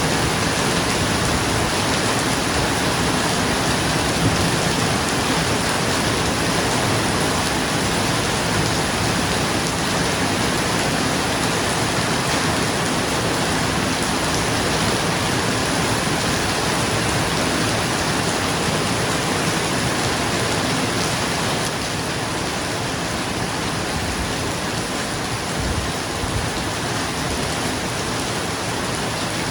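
Steady rain falling on a roof, a dense, even hiss that eases slightly about two-thirds of the way through.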